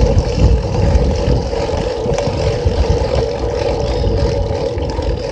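Bicycle being ridden, heard through a phone mounted on the bike: wind buffeting the microphone with a heavy, uneven rumble over a steady hum of the ride.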